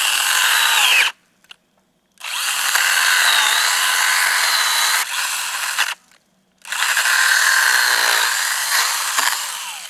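Battery-powered Stihl 12-volt mini chainsaw cutting through a log in three runs of a few seconds each. The motor stops twice, briefly, between runs, and its whine dips as the chain bites.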